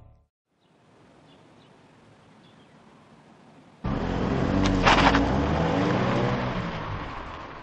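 2014 Kia Cadenza's 3.3-litre V6 engine and exhaust running under acceleration. It cuts in suddenly about halfway through after faint hiss, is loudest a second later, then fades.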